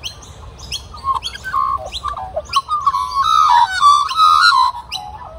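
Australian magpie warbling song, a run of stepping, fluting notes starting about a second in and peaking in the middle, over a steady series of short, high, repeated chirps about two a second.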